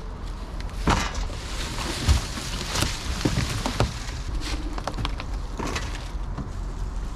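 Irregular knocks, clunks and scraping as loose parts and junk are handled and cleared out of an old boat, over a steady low rumble. The loudest thuds come about one, two and three seconds in.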